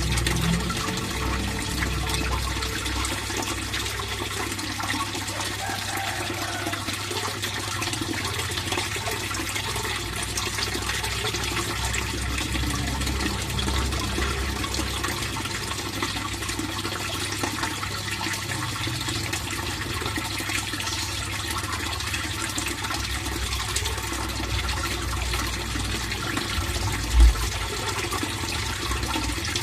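Fish pond water flowing and trickling steadily, with a low rumble under it. A single brief low thump sounds near the end.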